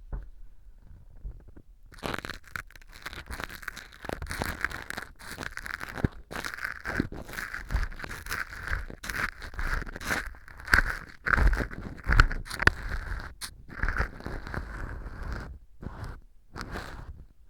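Ear pick scraping and crunching at dry fu (baked wheat gluten) glued like earwax inside an ear-model tube, close-miked. It is a run of irregular scratchy, crunchy strokes that starts about two seconds in. The glue has set the fu hard, so the pick grates against it.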